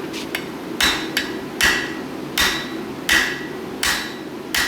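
Hand hammer striking the end of a steel bar stood on the anvil's foot to upset it: about six heavy blows, one every three-quarters of a second, each with a short metallic ring.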